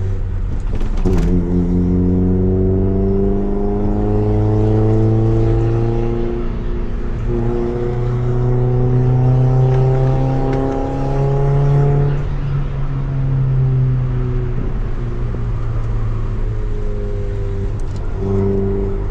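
Honda EF Civic's D15B1 four-cylinder through a Tanabe Revel Medalion Touring S exhaust, pulling through the gears. Engine pitch climbs, breaks at a gear change about seven seconds in, climbs again, then eases off with the throttle, and rises sharply again near the end.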